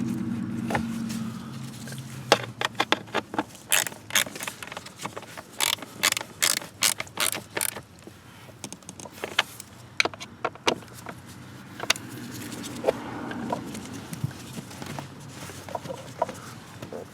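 A steady mechanical hum fades out in the first second or two. Then comes a long run of sharp clicks and knocks from tools and parts being handled, densest in the first half and scattered later.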